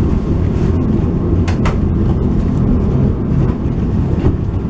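Steady low rumble of a moving passenger train heard from inside the coach, with a few light ticks and knocks.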